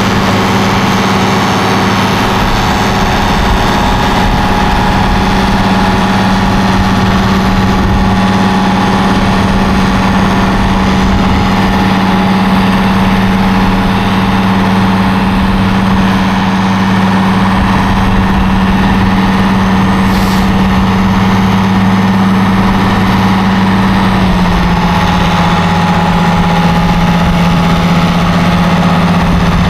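A heavy tractor engine running steadily at a constant engine speed. About 24 seconds in, the engine note steps down slightly as the revs ease off.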